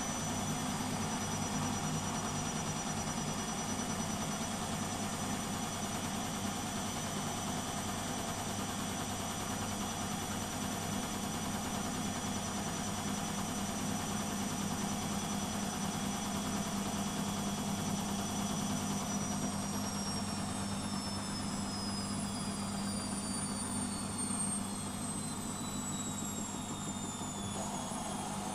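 Beko WMP 601 W washing machine running, a steady hum with a high motor whine that holds level and then falls steadily in pitch from about two-thirds of the way through, as the drum slows.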